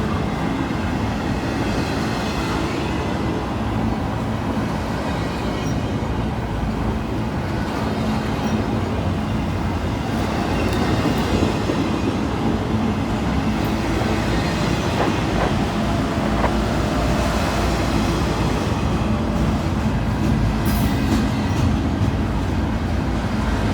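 Freight train rolling past, a steady loud noise of its wheels running on the rails.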